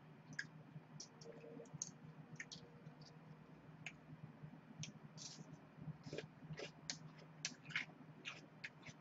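Faint crisp crunching and mouth clicks of someone chewing raw yellow bell pepper close to the microphone: a scatter of short, irregular clicks, several a second.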